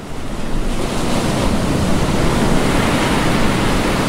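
Ocean surf: waves breaking in a steady rush of noise, with wind buffeting the microphone. It swells in over the first second, then holds steady.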